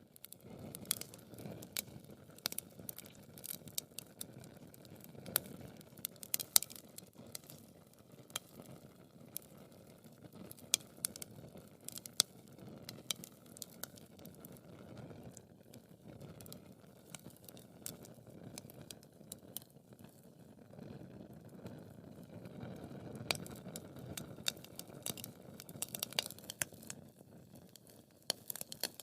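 Wood fire crackling in a fireplace: irregular sharp pops and snaps, a few much louder than the rest, over a soft, steady rush of burning.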